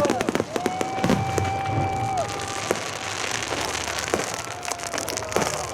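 Fireworks crackling and popping in a dense run of sharp cracks, with a few held whistling tones that drop away at their ends in the first couple of seconds, the barrage gradually thinning.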